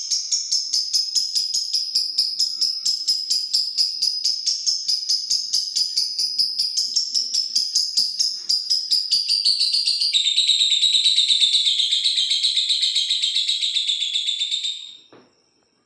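Lovebird 'ngekek': a long, unbroken run of rapid, shrill chirps that slowly falls in pitch. About ten seconds in it turns into a denser, lower trill, then stops abruptly near the end.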